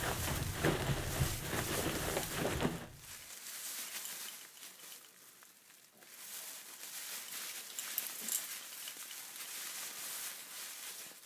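Crackly rustling noise with a low rumble that cuts off abruptly about three seconds in. After it comes quieter rustling of cotton fabric, which picks up again from about six seconds in as a hand pats and gathers a T-shirt.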